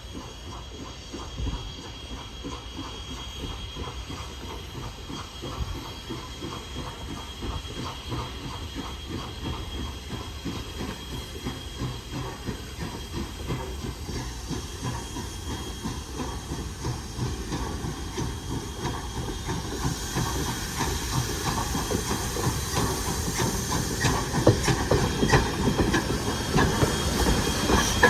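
A train approaching on rails, its sound growing steadily louder, with a dense clatter of wheels on track.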